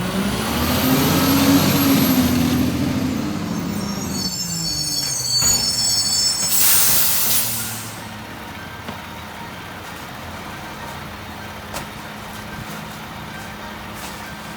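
Peterbilt 520 garbage truck's diesel engine working with its pitch rising and falling, then a high brake squeal and a short loud hiss of the air brakes about seven seconds in, after which the engine settles to a steady idle.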